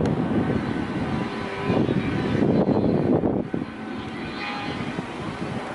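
Airliner engines rumbling during a takeoff, dropping noticeably in level about three and a half seconds in.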